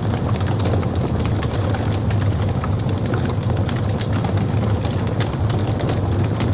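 Fire burning, a steady low rumble under frequent small crackles and pops.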